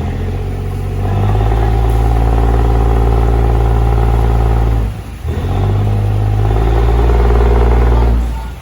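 An engine running steadily, its low rumble dipping briefly about five seconds in and fading near the end.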